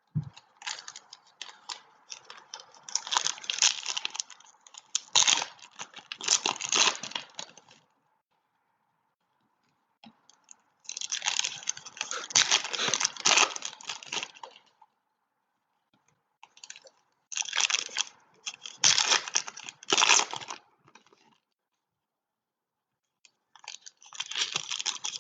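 Foil wrappers of trading card packs being torn open and crinkled, in bouts of a few seconds with short pauses between.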